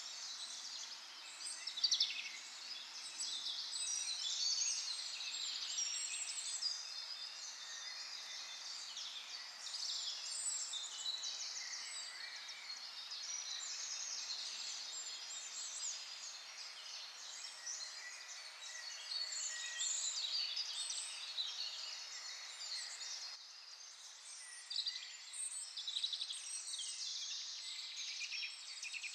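Many small birds singing and calling at once: a busy, continuous mix of high chirps and trills.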